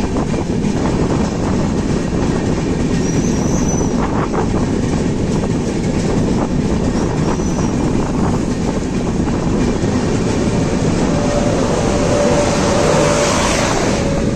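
Train running along the track: a steady rumble of wheels on rails with a few clicks. A faint steady whine comes in about three-quarters of the way through.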